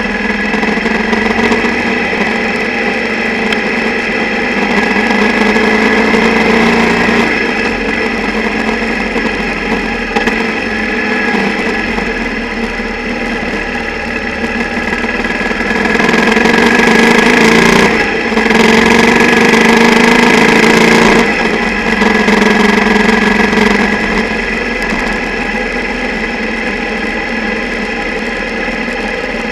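Single-cylinder motorcycle engine running under way, picked up mostly through the bike's structure by a camera in an underwater housing that rattles from the engine's vibration. The engine gets louder twice, the second time for about five seconds with a brief dip in the middle.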